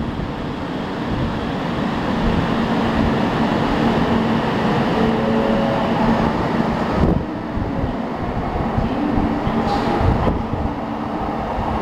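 JR Kyushu 800 series Shinkansen pulling out and gathering speed alongside the platform: wheel and running noise over a steady electric hum, with the traction motors' whine climbing in steps about five seconds in. The sound eases about seven seconds in as the end car draws away.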